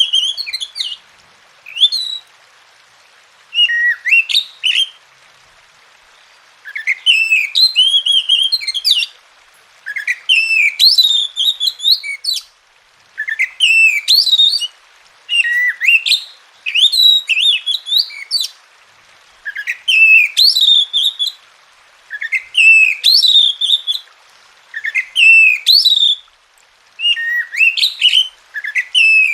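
Oriental magpie-robin (kacer) singing: repeated phrases of clear whistles and chirps, each a second or two long, separated by short pauses.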